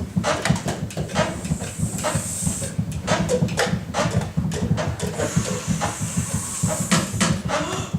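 A group improvising with their feet and voices: many irregular stamps, scuffs and shuffles on a hard floor mixed with hissing that swells near the start and again about five seconds in, together giving a chuffing, train-like texture.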